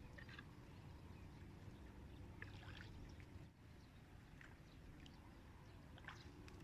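Faint water sounds from a small boat on marsh water: a few small splashes and drips over a low steady rumble.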